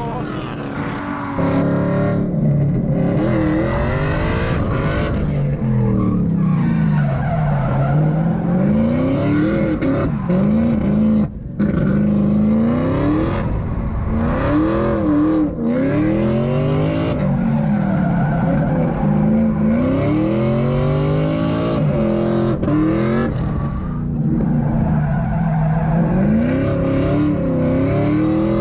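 Drift car's engine revving hard and falling back again and again as the throttle is worked, with tyres squealing and skidding.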